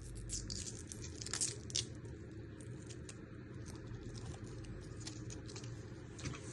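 Faint papery crackling and rustling of garlic skin being peeled off the cloves by hand, with a few sharper crackles in the first couple of seconds, over a low steady hum.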